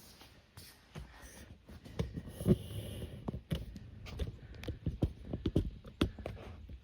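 Scattered light clicks and knocks of hands and tools at work on a zero-turn mower, with a brief hiss about two and a half seconds in.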